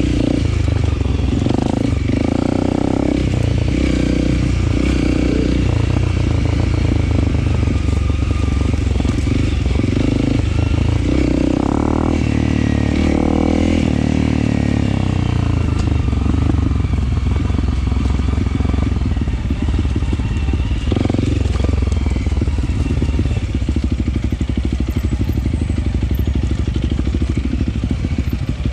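Honda CRF300L single-cylinder dirt bike engine running at low revs with short bursts of throttle, then settling into a steadier low, evenly pulsing note about two-thirds in.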